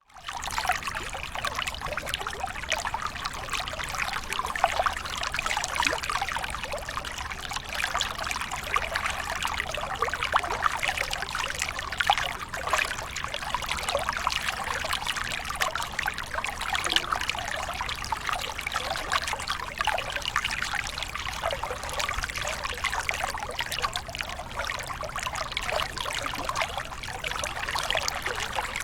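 Waterfall: water pouring and splashing steadily, with a dense patter of small splashes.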